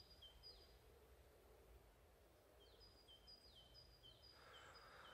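Near-silent winter forest with faint, high bird calls: a few thin repeated chirps at the start, then a longer series from about two and a half seconds in.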